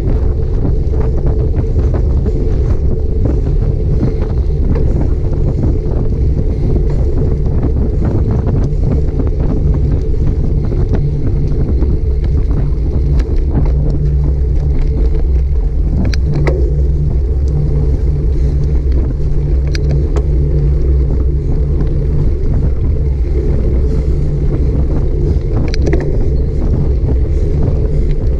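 Wind buffeting a bike-mounted action camera's microphone while riding: a loud, steady low rumble, with frequent small knocks and rattles from the road surface.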